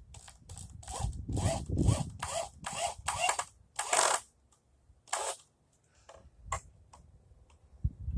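Hand saw cutting through lumber: a run of quick rasping strokes, about two and a half a second, that stops about four seconds in, followed by a few single strokes.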